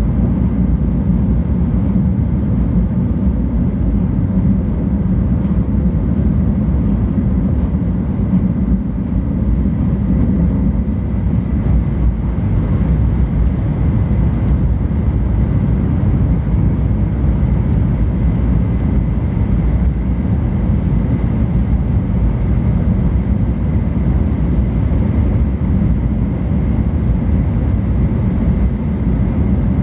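Steady running noise of a 700-series Shinkansen train, a constant low rumble heard inside the passenger cabin, with faint steady whines higher up.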